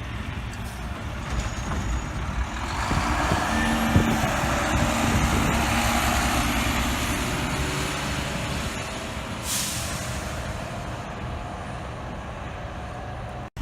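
A truck going by, its engine and road noise growing louder about two and a half seconds in and then slowly fading, with a short hiss of air brakes about nine and a half seconds in.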